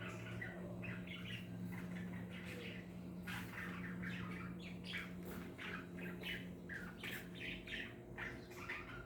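Cockatiels squawking and chirping in a quick string of short calls, over a low steady hum.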